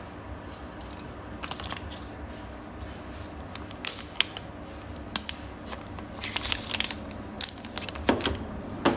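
Metal clicks and clinks from a Zippo lighter being handled, a handful of sharp single clicks with short rattly clusters in between, coming at irregular intervals and more often in the second half.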